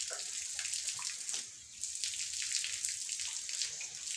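Running water: a steady hiss with small crackles that dips briefly about a second and a half in.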